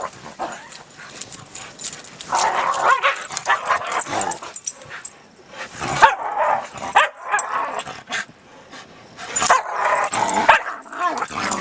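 Dogs barking and yipping while play-fighting, in three bouts of a second or two each with short pauses between.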